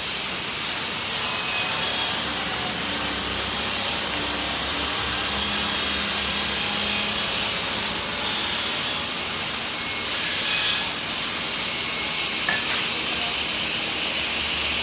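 Rain falling, a steady hiss, with one brief louder gust of it about two-thirds of the way through.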